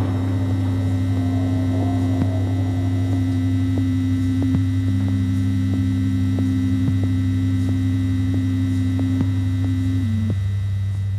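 A steady low hum with a few held tones above it and faint scattered clicks. Near the end one of the tones steps down in pitch and drops out.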